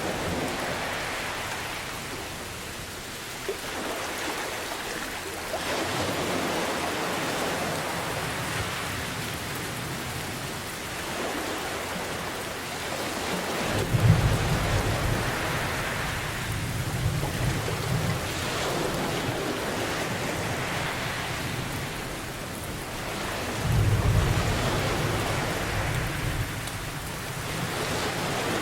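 Steady heavy rain over ocean waves that surge and ease every few seconds, with low rolls of thunder about halfway through and again a few seconds before the end.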